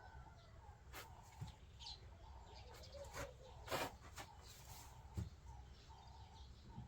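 Faint birds chirping in the background, with a few short sharp clicks or knocks, the loudest nearly four seconds in.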